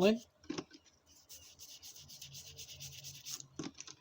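Toothbrush scrubbing a small die-cast model part in warm soapy water: a rapid, scratchy back-and-forth brushing that starts about a second in and runs until near the end.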